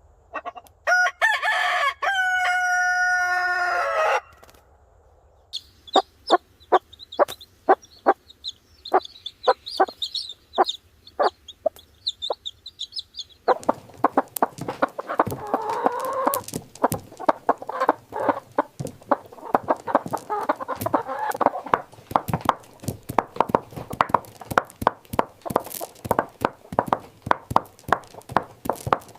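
A rooster crows once, a call of about three seconds that drops in pitch at the end. After that come many sharp clicks, and from about halfway through, chicken clucking mixed with the clicks.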